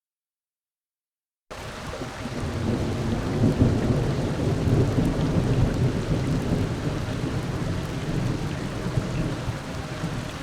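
After about a second and a half of dead silence, steady rain starts abruptly with a long rolling rumble of thunder. The thunder swells over a couple of seconds, then slowly fades under the rain.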